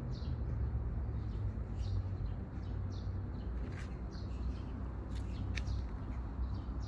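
Birds chirping, short scattered calls here and there, over a steady low rumble.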